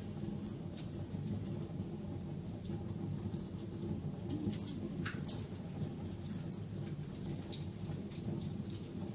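Wood fire burning with a steady low roar and frequent sharp crackles and pops scattered throughout.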